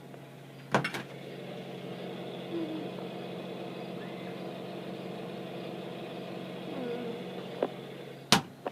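A click, then a steady mechanical hum with several even tones for about seven seconds, ended by a sharp knock near the end.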